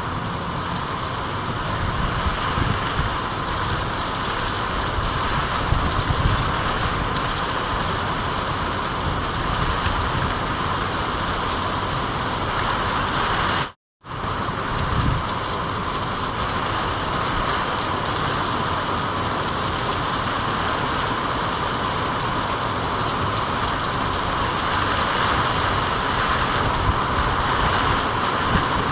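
Steady rain, a dense, even hiss that cuts out to silence for a moment just before the halfway point.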